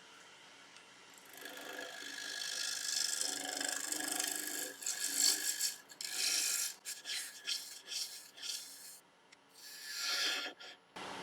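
Turning gouge cutting across the face of a spinning walnut bowl blank on a wood lathe, truing it up: a steady scraping hiss that starts about a second in, then breaks into short separate passes, with a last pass near the end.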